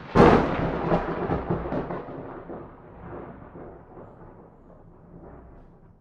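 Thunderclap: a sudden sharp crack about a quarter of a second in, followed by rumbling that slowly dies away over the next five seconds.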